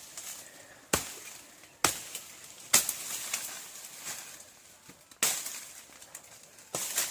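A blade chopping through brush to clear a spot: sharp strikes, three about a second apart, then two more after a pause.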